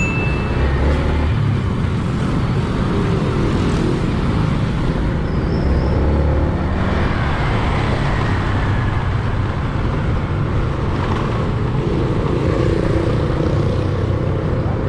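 Motorcycle under way: engine and road noise under a heavy, steady wind rumble on the microphone.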